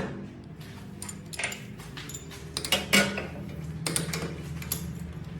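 Steel tools and parts clinking and knocking as they are handled: a series of sharp metallic clinks, loudest about three seconds in, over a steady low hum.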